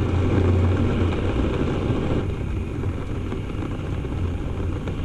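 Steady road and engine drone heard from inside a moving car, a low hum under a hiss of tyre noise, easing slightly about two seconds in.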